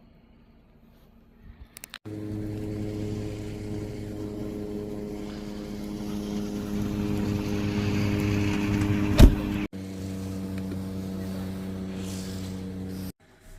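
Vehicle engine running at a steady pitch after a few clicks. It grows louder toward the middle, with one sharp click, then cuts off abruptly and resumes more quietly before stopping again.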